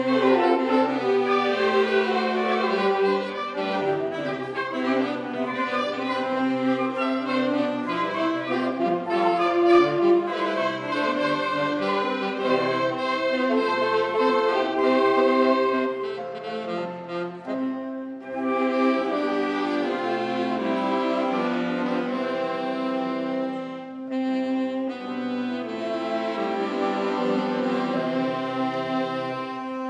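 Amateur wind band of brass and saxophones playing sustained chords and melody, with short breaks between phrases about two-thirds of the way through.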